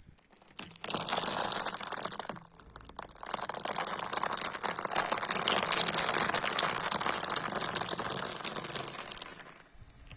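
Objects crackling and crunching as a car tyre rolls over and crushes them, in two stretches with a short break about two and a half seconds in.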